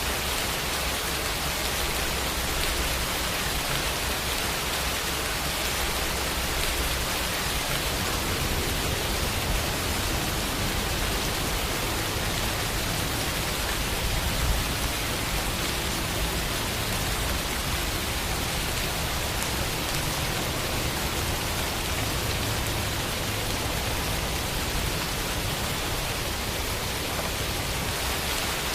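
Steady rain falling, an even dense hiss of drops with faint scattered ticks.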